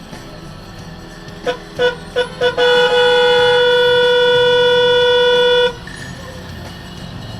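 Vehicle horn honking: four quick short toots, then one long blast of about three seconds that cuts off sharply, over steady low traffic rumble.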